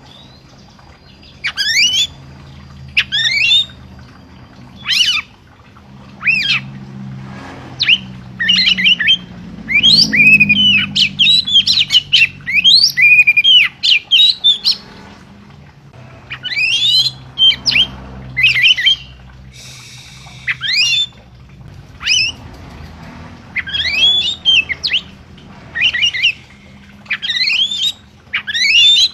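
A songbird giving loud, sharp, squawky calls, one every second or two, with a quicker run of calls in the middle.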